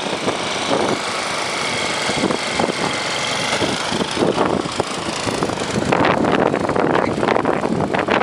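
An engine running steadily outdoors, with an even rushing noise.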